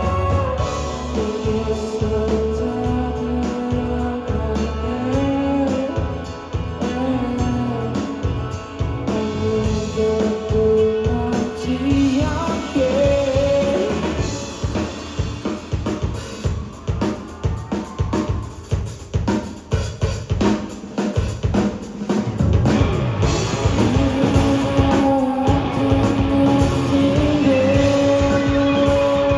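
Live rock band playing through a PA, with held guitar and vocal notes over drums; about halfway through the music drops to a stretch of busy drumming for several seconds before the held notes return near the end.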